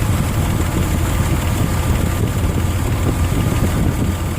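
2002 Nissan Xterra's 3.3-litre V6 idling steadily at operating temperature, running smoothly with its ignition timing freshly set by turning the distributor.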